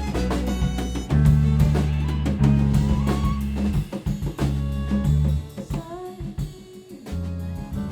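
A band playing instrumentally: bass guitar holding long low notes under a drum kit with snare and kick hits, other instruments above. The bass drops out for about a second and a half a little past the middle, then comes back in.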